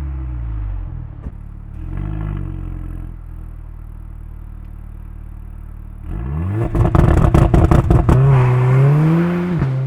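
Mercedes-AMG A45's turbocharged 2.0-litre four-cylinder engine revved while standing. Its revs fall back to idle with a short blip about two seconds in, then it idles. About six seconds in it rises sharply to high revs with a rapid run of sharp exhaust cracks, then holds a high, slightly wavering note.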